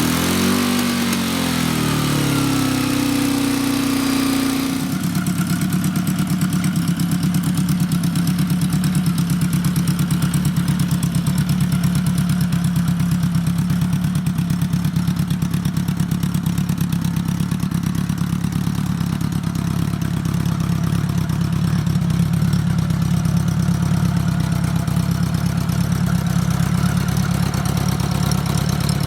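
1976 Honda Goldwing GL1000's liquid-cooled flat-four engine running through newly fitted exhaust pipes and mufflers while it warms up. For the first few seconds its pitch swings up and down with the throttle, then about five seconds in it drops to a steady idle.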